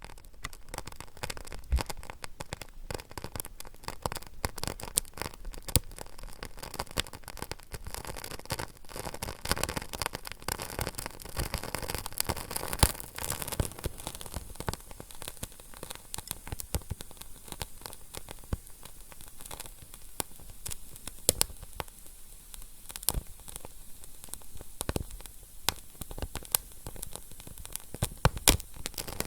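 A fire crackling steadily, with frequent sharp pops and snaps over a soft hiss, a few pops standing out louder.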